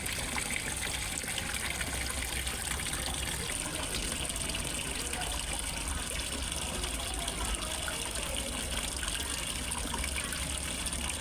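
Small waterfall splashing and trickling steadily into a fish pond.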